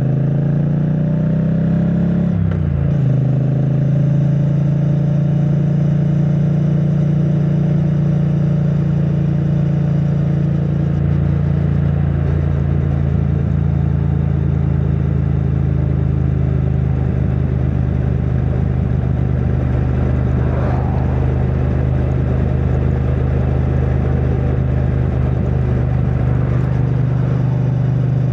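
2022 Triumph Bonneville T100's 900 cc parallel-twin engine through its stock exhaust, rising in pitch under acceleration, shifting up about two and a half seconds in, then running at a steady cruise.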